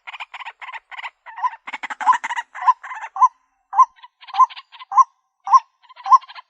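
White-breasted waterhen calling: a harsh, rapid rattling chatter with a short note repeated a little under twice a second, starting about a second and a half in.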